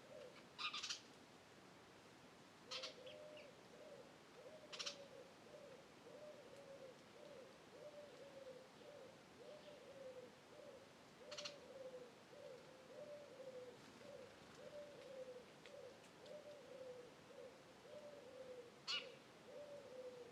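A bird giving a long, faint run of soft low hoots, about two a second. A few brief, sharp chirps from small birds sound over it, the loudest near the start and near the end.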